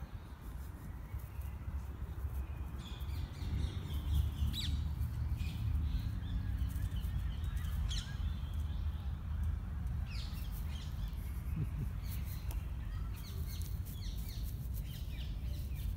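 Short scattered bird calls every few seconds over a steady low rumble.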